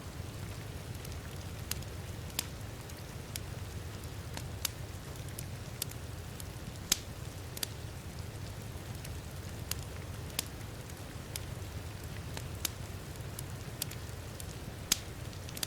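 Wood fire in a fireplace crackling, with sharp, irregular pops about once a second over a steady low rumble, mixed with the hiss of rain.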